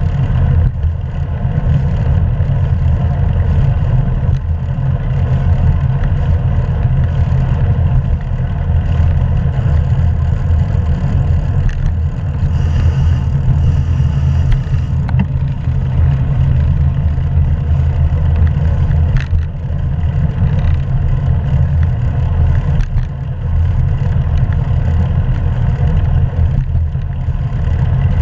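Steady low rumble of wind and road noise on a GoPro camera's microphone while riding a bicycle, with a few faint clicks and rattles.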